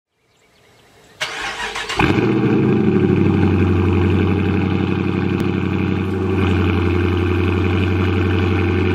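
A Dodge Charger R/T's 5.7-litre HEMI V8, fitted with an aftermarket Carven exhaust, being started: the starter cranks about a second in, the engine catches with a flare about two seconds in, then settles into a steady idle.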